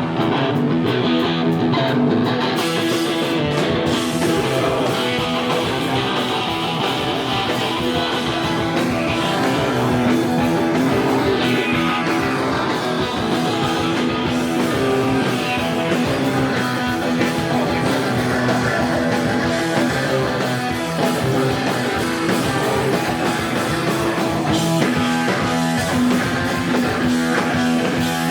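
Live rock band playing a loud, guitar-driven song.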